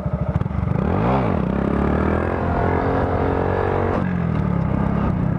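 Motorcycle engine revved from idle: a quick throttle blip about a second in, then a longer rev that climbs and holds before dropping back to a steady idle near the end.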